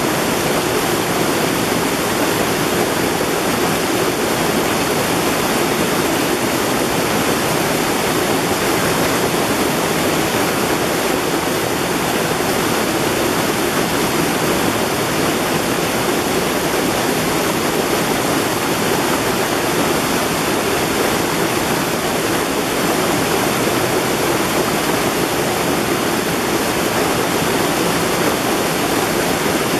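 Mountain valley stream, water rushing and splashing steadily over rocks in an even, unbroken flow.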